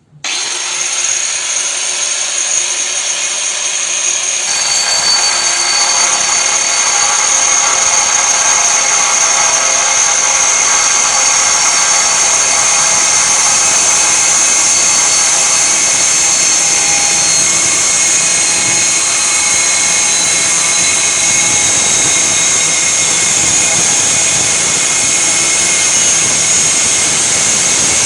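Angle grinder cutting into the steel outlet of a Royal Enfield Classic 350 BS6 stock silencer: it spins up at once, bites into the metal about four seconds in, and runs as a loud, steady, high grinding whine with a faint slowly falling tone.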